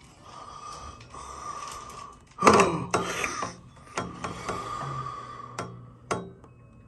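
Handling noise from a smartphone being adjusted on its mount: a loud knock about two and a half seconds in, then scattered clicks and rattles.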